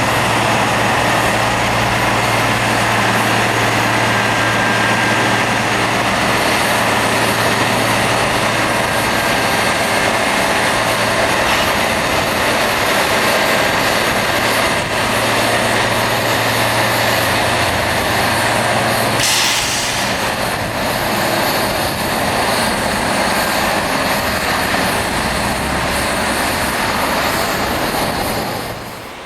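Rail grinding train working the railhead: a loud, steady, harsh rush of grinding noise over a low engine hum. The hum stops with a short sharp burst about two-thirds through, and the noise drops away just before the end.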